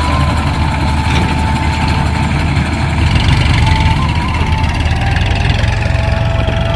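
Kubota combine harvester's diesel engine running steadily with a heavy low rumble, growing a little louder about halfway through.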